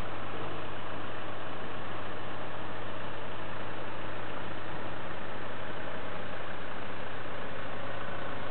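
Kubota M105S tractor's diesel engine running steadily, a constant low hum with no change in speed.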